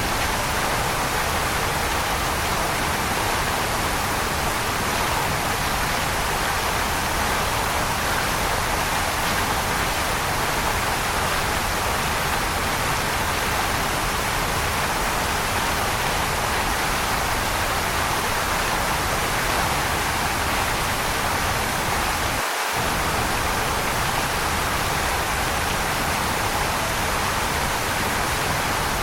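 Waterfall: a steady, even rush of falling water with no pauses. The low rumble drops out for a moment about three-quarters of the way in.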